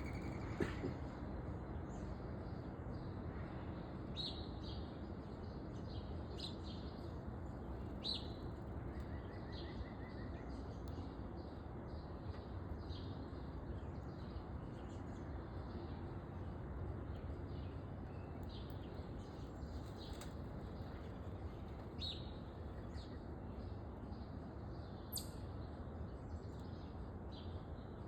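Small backyard birds chirping: many short, high chirps scattered throughout, over a steady low background noise.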